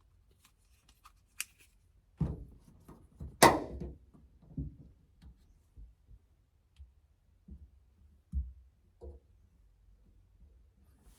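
Hand tools being handled while working on a steering wheel: scattered clicks and clunks, with a single sharp metallic clank about three and a half seconds in that is the loudest, and softer low thuds later.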